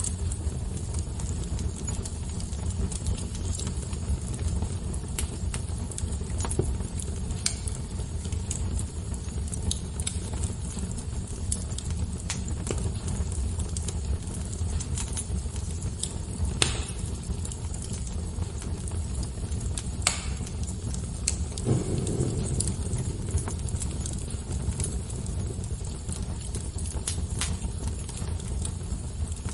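Wood fire crackling, with frequent sharp irregular pops and snaps over a steady low rush of flames, and a brief swell of that rush about two-thirds of the way through.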